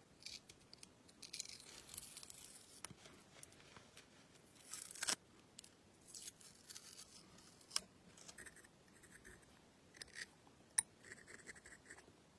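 Faint, irregular scraping and rubbing with several sharp clicks, from hand work on an old household sewing machine.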